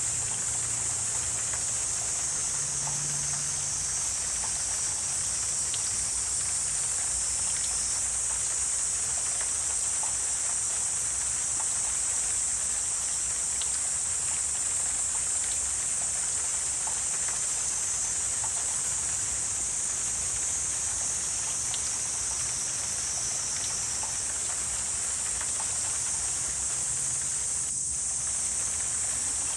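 Wetland ambience dominated by a steady, high-pitched insect chorus, with scattered faint ticks and a faint low hum underneath.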